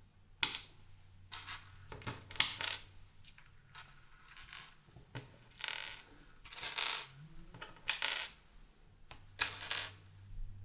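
Small plastic LEGO pieces clattering and clicking as they are handled and pressed together, in short separate bursts throughout, some brief rattles like pieces being sifted.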